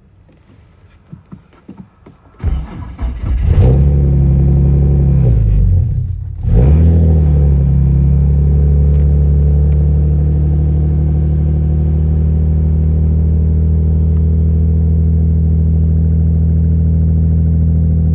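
Infiniti G37's V6 cranked over by the starter and firing up on E85 fuel from a cold start in below-freezing weather. The revs dip briefly about six seconds in and pick back up, then it settles into a steady, fast cold idle.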